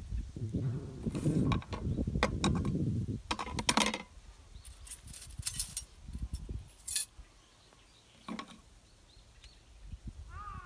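Handling noise with light metallic clinks and clicks, likely thin metal parts knocking together. The first few seconds are busier; after that come a few isolated clicks, the sharpest about seven seconds in.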